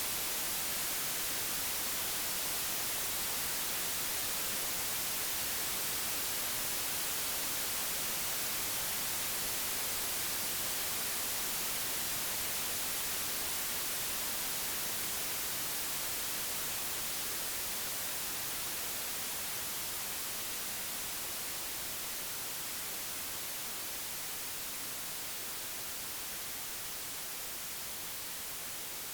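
Computer-generated white noise: an even, steady hiss with no tones or events, brightest in the high frequencies, its level easing down slightly over the second half.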